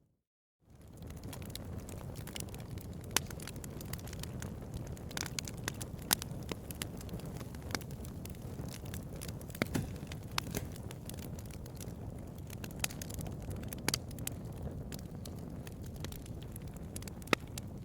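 Wood fire burning with a steady low rumble, crackling and popping at irregular moments. The sound drops out for a moment at the very start, then fades back in.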